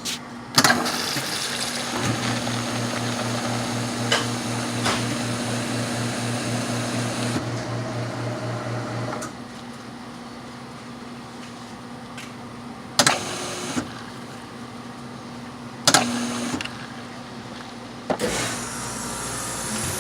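Soda fountain dispensing into a cup: a steady pour with a pulsing motor hum for about nine seconds, then stopping, followed by a few sharp knocks near the end.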